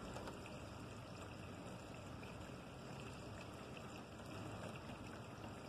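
Light drizzle falling on wet ground and leaves: a soft, even hiss with faint scattered ticks, over a low steady hum.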